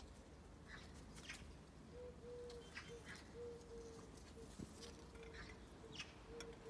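Quiet outdoor ambience with faint, scattered bird chirps and a faint mid-pitched hum that comes and goes from about two seconds in.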